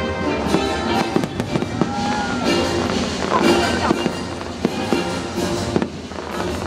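Aerial fireworks bursting in quick succession, many sharp pops and bangs, over the show's music soundtrack playing on loudspeakers.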